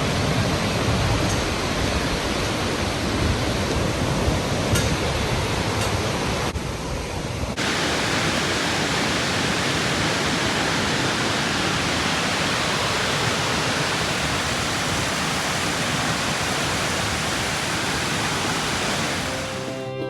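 Waterfall roaring, a steady rush of falling water. About seven and a half seconds in it changes abruptly to a brighter, hissier rush, which fades out at the very end.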